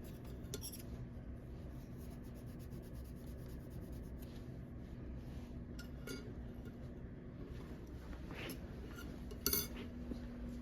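Small metal jewelry pieces and tools being handled on a workbench: a few light metallic clinks spread through the quiet, the loudest near the end, over a steady faint hum.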